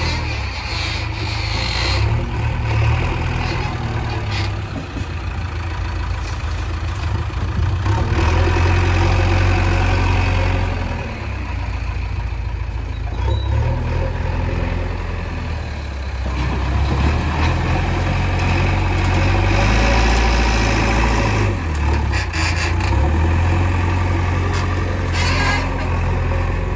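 Diesel engine of a JCB 3DX backhoe loader running under working load, its note rising and falling as the load comes on and off.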